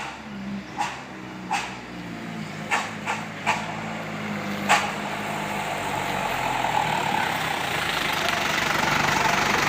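Light truck engine running through an aftermarket exhaust, with several short sharp pops in the first five seconds. The engine noise then builds steadily louder over the second half.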